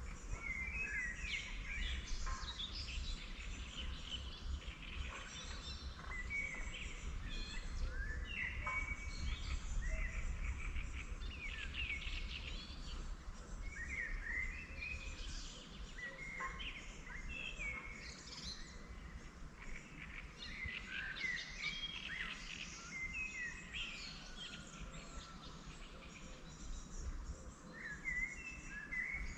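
Several songbirds singing and chirping in short, overlapping phrases, over a steady low rumble.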